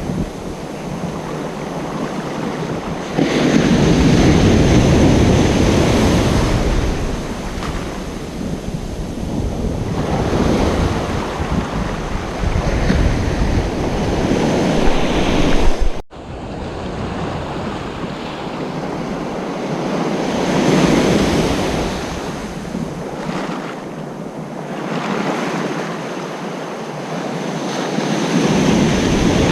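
Ocean surf breaking and washing up on a beach, swelling and easing every several seconds, with wind rumbling on the microphone. About halfway through the sound drops sharply, then builds again with the next wave.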